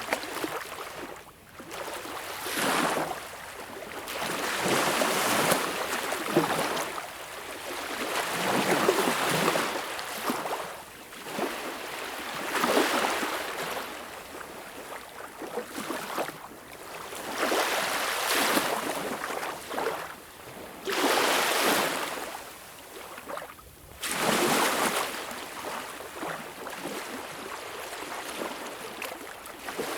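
Small, calm waves breaking and washing up a beach, one swell of hissing surf every few seconds, each rising and then fading back.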